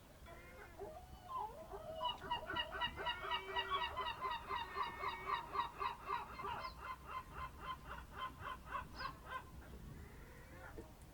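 A bird calling a long run of rapid, evenly repeated notes, about four to five a second, starting about two seconds in and tailing off near the end, with a few shorter calls before it.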